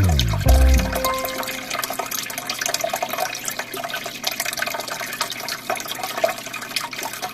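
Aquarium water flowing, a steady noisy rush dotted with many small crackles, after background music dies away about a second in.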